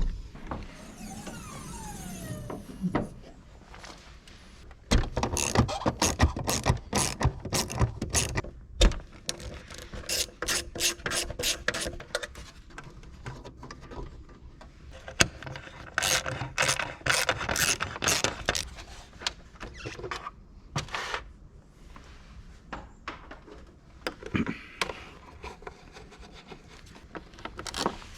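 A hand ratchet wrench clicking in quick runs as bolts are worked on the car, with pauses between the runs.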